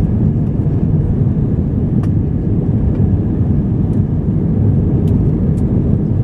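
Airbus A319 cabin noise in flight: a steady, loud, low drone of the jet engines and airflow, with a few faint clicks.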